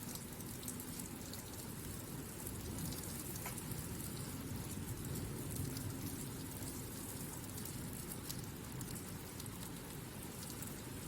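Steady rain falling, with a few single drops ticking out now and then.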